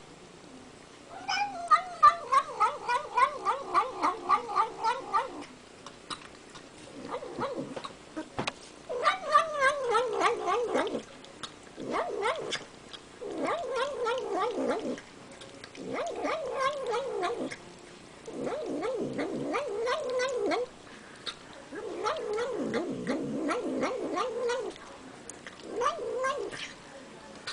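Domestic cat vocalizing while it eats sour cream: a rhythmic "nom nom nom" mumble in repeated bouts of one to four seconds with short pauses between. The first bout is the loudest and pulses about four times a second.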